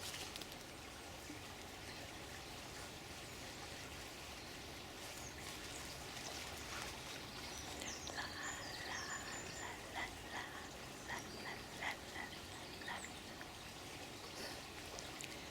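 Running water flowing steadily. From about seven seconds in, birds chirp, including a rapid series of short repeated calls.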